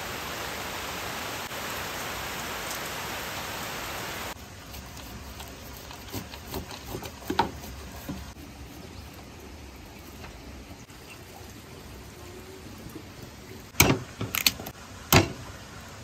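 Steady rain hiss that cuts off abruptly about four seconds in, followed by a quieter stretch with scattered sharp knocks and clicks, the loudest few near the end.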